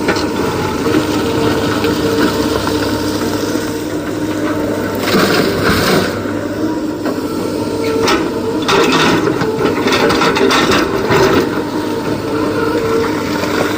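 Heavy diesel machinery of an excavator loading a tipper truck, running steadily, with a spell of rattling and scraping about five seconds in and a longer one from about eight to eleven seconds, typical of rock being scooped and dumped.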